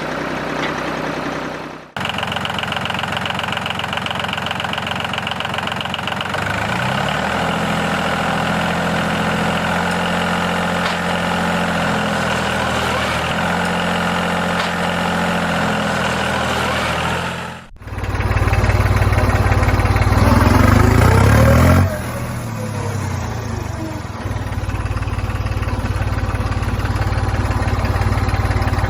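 An engine running steadily in three stretches, each ending in a sudden cut, one about 2 s in and one near 18 s. A deeper, louder engine hum follows the second cut.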